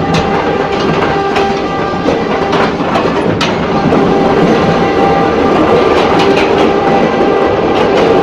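Ex-JR 203 series electric multiple unit running along the track, heard from inside a car: a steady rumble with a held hum and scattered sharp rail-joint clicks, one louder click about three seconds in, growing slightly louder about four seconds in.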